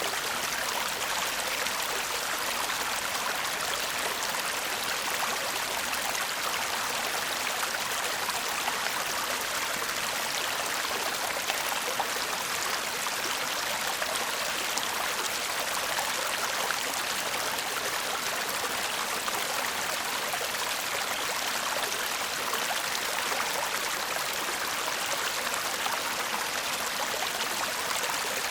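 Shallow stream babbling steadily over stones, a bright, even rush of water with no breaks.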